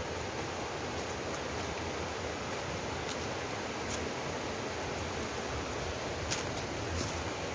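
Mountain stream water rushing steadily over rocks, an even hiss with no change.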